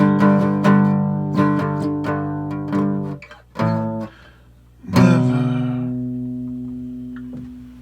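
Guitar playing the closing bars of a slow song: picked notes for about three seconds, a short pause broken by one brief chord, then a final chord struck about five seconds in and left ringing as it slowly fades.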